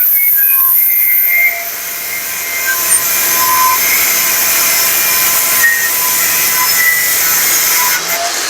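Progen 9101-HG 1100-watt, 4-inch electric angle grinder with a cutting wheel cutting through iron: a loud, continuous shrill grinding hiss. It eases briefly about a second and a half in.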